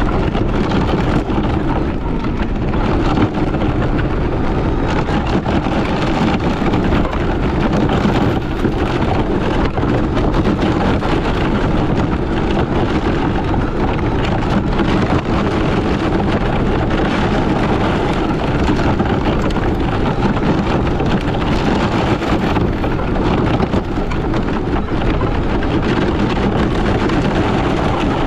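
Small electric RC rally car driving over rough dirt and rocks: a loud, steady, crackling noise of tyres and drivetrain on the rough ground.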